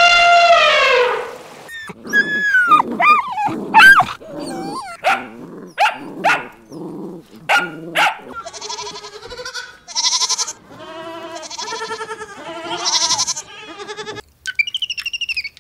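A dog barking: a quick run of short, sharp barks with pitch sliding up and down, followed by four long, wavering bleats.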